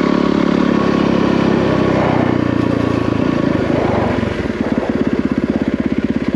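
Yamaha WR450F single-cylinder four-stroke dirt bike engine running under throttle. About four seconds in the revs fall and it settles into an even idle.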